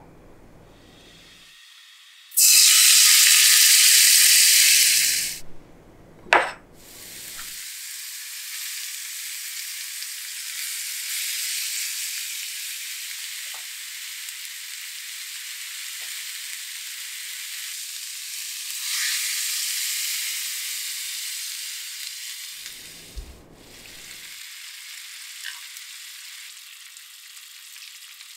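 Chopped kimchi and sliced onion dropped into hot oil in a frying pan: a loud sizzle for about three seconds, then a steady frying sizzle as they are stir-fried. The sizzle drops lower after about 23 seconds, when broth is in the pan and it simmers.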